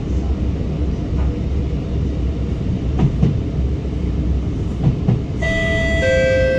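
R151 metro train running, heard from inside the car: a steady low rumble with a few short knocks from the wheels, two close together about three seconds in and two about five seconds in. Near the end a clear two-note tone starts, the second note lower.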